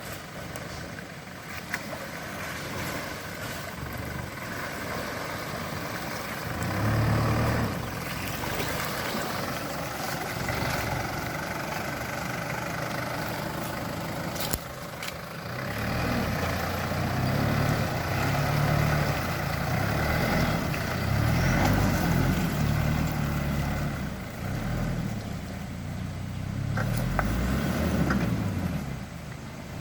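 Engine of a Toyota four-wheel-drive running at low speed as it eases slowly downhill on a rough track. The engine note rises and falls with the throttle and gets louder in the second half.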